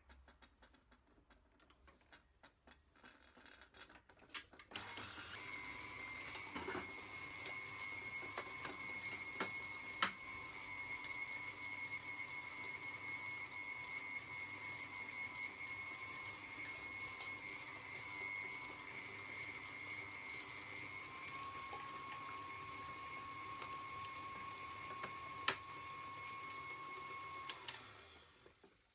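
Electric kitchen mixer switched on about five seconds in and running steadily with a steady whine, its pitch stepping up slightly about two-thirds of the way through, with two sharp knocks, then switched off near the end.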